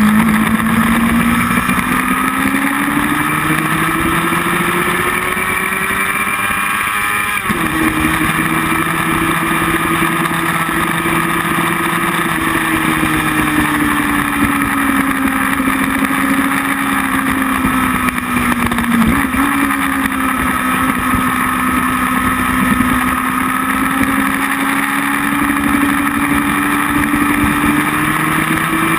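Motorcycle engine running at speed on track, with wind rush. The engine note rises for about seven seconds, changes abruptly, then falls slowly and holds steady.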